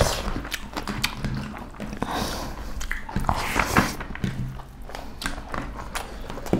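Close-up eating sounds of two people eating by hand: chewing and mouth noises, with irregular small clicks and squelches as fingers mix rice and beef curry on the plates.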